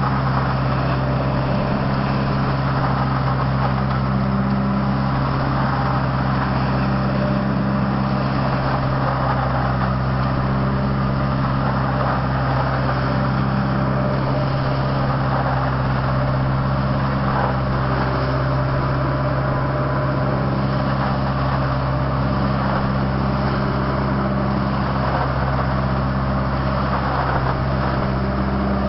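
ODB truck-mounted leaf collector running steadily: a constant engine drone with a rushing hiss over it.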